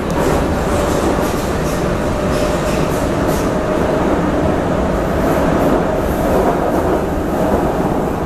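Prague metro train running through a tunnel on line A: a steady dense rumble of wheels on rail with a faint steady whine and a few light clicks.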